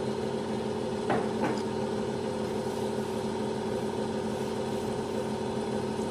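Electric workshop machine running steadily with a constant hum, with two sharp knocks about a second in.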